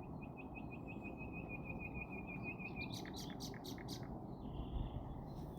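A small bird trilling: a rapid run of short, evenly spaced notes, about seven a second, for nearly three seconds, followed by a few sharp clicks, over a steady low rumble of city background noise.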